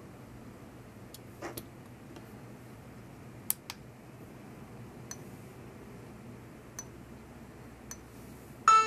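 A low hiss with a handful of short, sharp clicks spread over several seconds. Near the end, music starts abruptly, played through the Sony Xperia Z2 phone's speaker.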